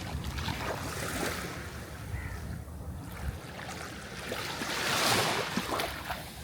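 Sea waves breaking, the hiss of surf swelling about a second in and again, louder, about five seconds in.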